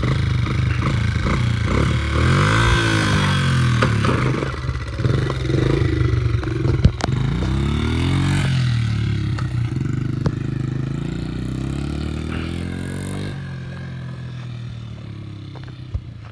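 Dirt bike engine at close range, revving up and down again and again as it is ridden, with a sharp knock about seven seconds in. Near the end it drops to a steadier, lower running that fades.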